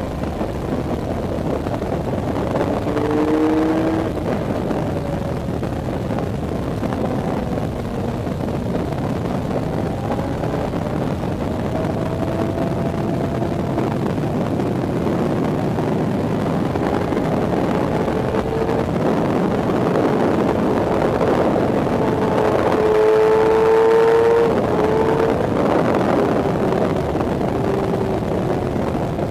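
Racing sport bike's engine heard from an onboard camera at track speed, its pitch rising and falling with the throttle and gear changes, under a steady rush of wind. About 23 seconds in, the engine note grows louder and rises for a couple of seconds.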